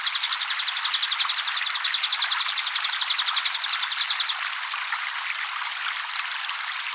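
Cililin bird song: a fast, even trill of high notes, about a dozen a second, that stops about four seconds in. Under it runs a steady trickle of running water, which carries on alone after the trill stops.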